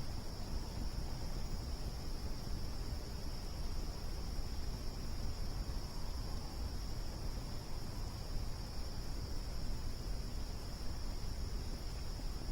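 Crickets chirring steadily and without a break, over a low, even rumble.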